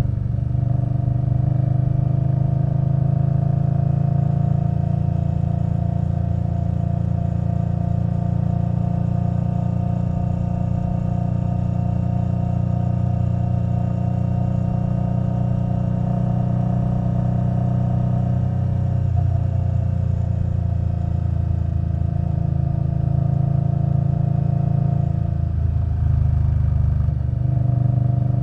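Indian Scout Bobber Twenty's liquid-cooled V-twin running through a Vance & Hines Twin Slash exhaust at a steady cruise. The engine note shifts briefly about two-thirds of the way through and again near the end.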